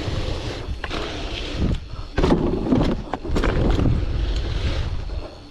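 Wind rushing over the microphone while riding a bicycle on dirt, with tyre noise and a run of knocks and rattles from the bike, heaviest about two seconds in.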